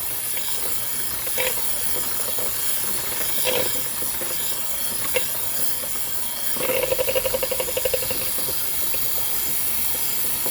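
Electric hand mixer running steadily at low speed, its beaters churning thick brownie batter in a bowl, with a brief rapid rattling about two-thirds of the way through.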